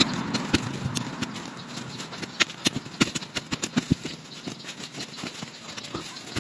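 A hand digging tool chopping and scraping into soil, giving a run of irregular sharp knocks as a hornet nest in the ground is dug out.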